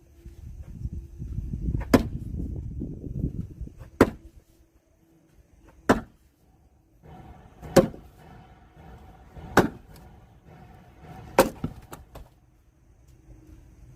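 A heavy log split by hand with six hard strikes, spaced about two seconds apart.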